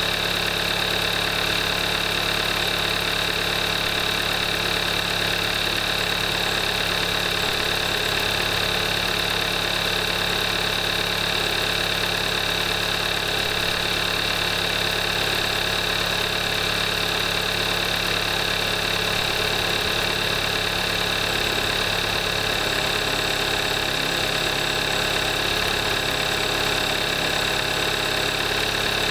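2014 Kia Forte5's 2.0 GDI direct-injection engine idling steadily, still warming up after a cold start, at 38,300 miles on synthetic 5W-20 oil.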